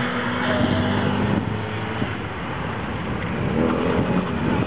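Moskvich sedan's engine revving as the car drives the figure-driving course. The engine note drops away after about a second and a half, leaving a steady outdoor noise.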